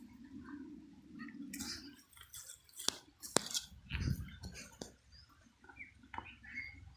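Small electric motor of a remote-control toy tractor humming for about two seconds, then stopping, followed by scattered sharp clicks, knocks and faint crunching scrapes.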